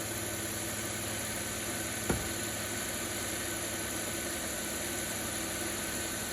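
Volvo XC90 engine idling steadily, with one sharp click about two seconds in.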